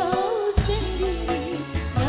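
Campursari song: a woman singing a wavering, ornamented melody over the band's accompaniment with bass and percussion.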